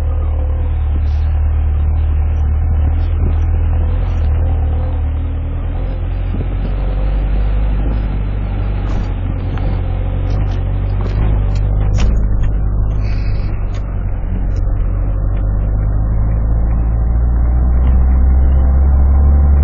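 Four-wheel-drive vehicle's engine pulling steadily up a snowy trail, a low drone heard from inside the cab. A sharp click comes about twelve seconds in, and the engine grows louder near the end.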